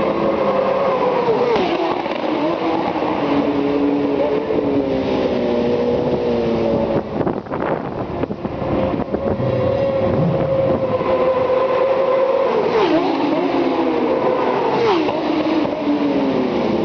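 Several superbike racing motorcycles running at high revs, their engine notes overlapping and gliding up and down, with sharp drops in pitch near the end. There is a brief rough, noisy patch about halfway.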